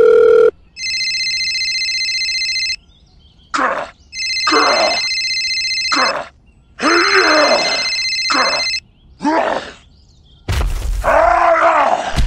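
A phone ringing in three spells, with cartoonish groans and grunts between and over the rings; near the end a longer, louder groan over a low rumble.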